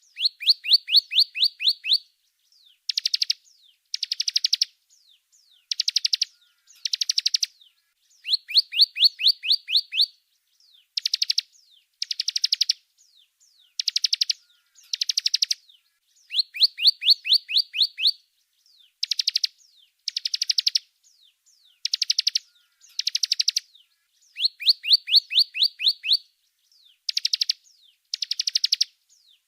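Songbird song from a bird-training (masteran) recording: bursts of rapid, sharp, high chirps, each about one to two seconds long with short gaps between, in a sequence that repeats like a loop.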